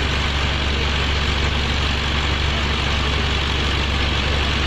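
Pneumatic drilling rig's engine running steadily: a constant low hum under an even mechanical noise, with no change in speed.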